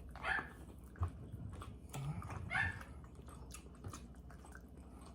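Quiet eating sounds: chewing with small mouth clicks and smacks, and two short faint vocal sounds, one near the start and one about two seconds in.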